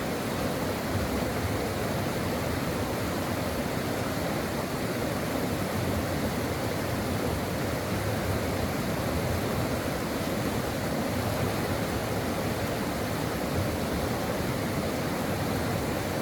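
Stream water rushing and splashing over rocks in a steady, unbroken flow.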